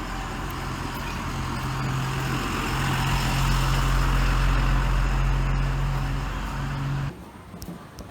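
A heavy vehicle's engine running steadily, with a low hum under a broad rush of running noise, which cuts off abruptly about seven seconds in.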